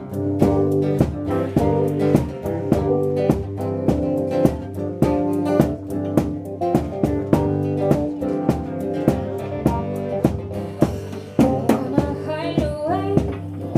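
Live band playing a steady groove, with drum kit hits in an even rhythm under bass and guitar. A voice comes in, bending in pitch, near the end.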